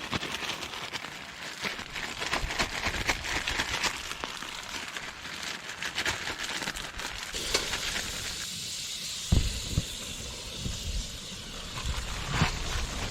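Heavy rain pattering and crackling on a camp tarp overhead, with gusts of wind buffeting the microphone about nine seconds in and again near the end.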